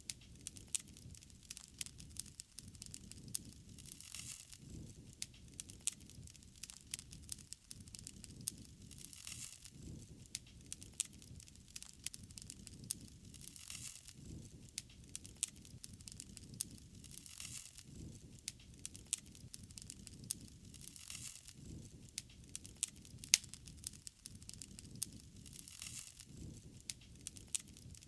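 Bonfire crackling, with many quick sharp pops and snaps over a low rumble that swells every few seconds.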